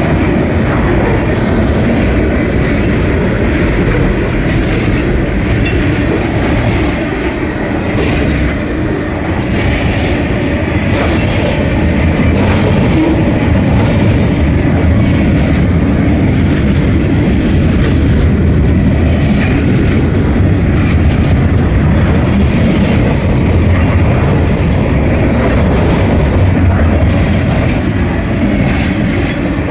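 Freight cars of a mixed freight train rolling past close by: a loud, steady rumble of steel wheels on the rails, with a click now and then as wheels pass over rail joints.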